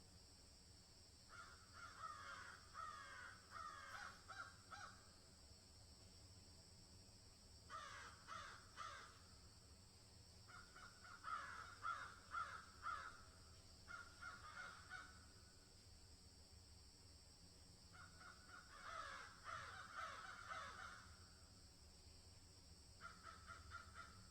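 Birds calling in about six bouts of quick repeated notes, each bout one to three seconds long, over a steady high-pitched hiss.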